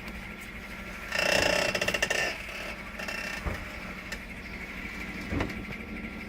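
2014 GMC Sierra 1500 body creaking: one loud creak made of fast ratcheting pulses, lasting about a second, starting about a second in, over the steady hum of the running truck. A couple of faint knocks follow later.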